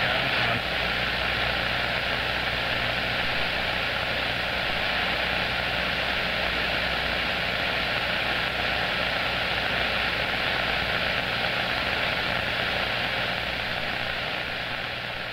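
CB radio receiver hissing with static between transmissions on an AM channel, a steady loud rush of noise with a faint steady low hum and a thin whistle-like tone under it.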